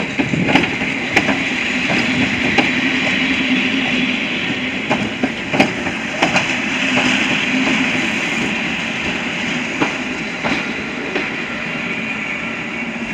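EN71 electric multiple unit rolling slowly past at close range as it pulls into the station: a steady rolling rumble of wheels on rail with a steady low hum, broken by irregular sharp clicks from the wheels. The sound eases a little toward the end as the train slows.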